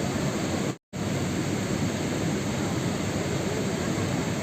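Steady, dense rain noise, like a heavy downpour, that cuts out completely for a split second about a second in and then resumes.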